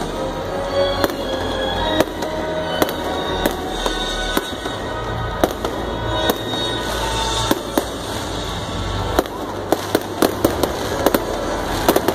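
Aerial fireworks bursting overhead in irregular sharp bangs and crackles, crowding into a rapid run of reports near the end.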